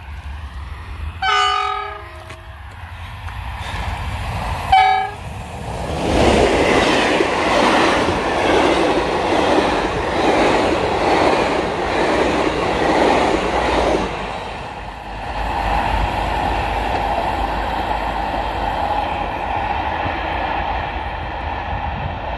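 Passenger train horn sounding a blast of about a second that drops in pitch as it ends, then a short second blast, as the driver's greeting. The train then passes close by, loud for about eight seconds with wheels clattering over the rails, and settles to a steadier, softer rolling hum as it draws away.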